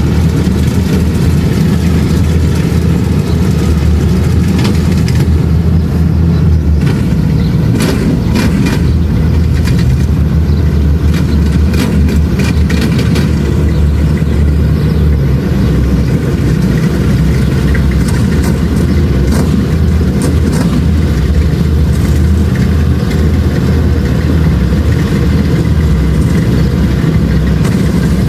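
Kubota DC-70 Plus combine harvester running steadily, its diesel engine a constant loud low drone, with scattered sharp clicks and rattles between about six and thirteen seconds in.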